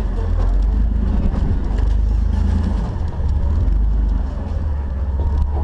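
Jeep's engine running at low speed off road, a deep steady drone with a short dip about three seconds in.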